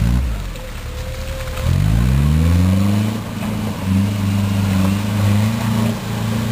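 Engine of a Daihatsu Rocky 4x4 pushing through deep mud: the revs sag for the first second or two, climb sharply about two seconds in, then hold high with small surges.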